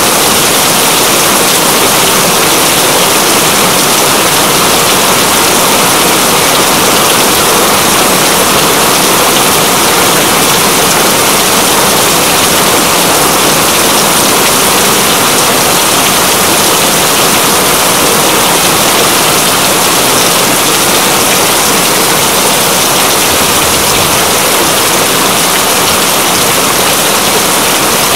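Steady, loud rain: an even hiss of rainfall that does not change.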